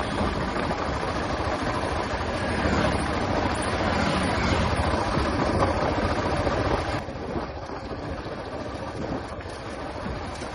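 Royal Enfield Classic 350's single-cylinder engine running on the move, with a steady low rumble under a loud rushing noise. About seven seconds in, the rushing noise drops away suddenly and the whole sound gets quieter.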